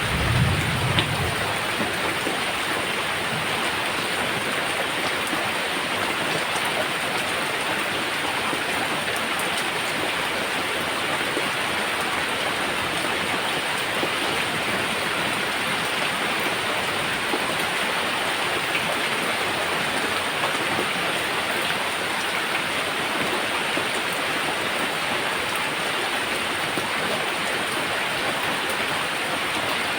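Steady rain falling, a dense even hiss, with a brief low thump in the first second.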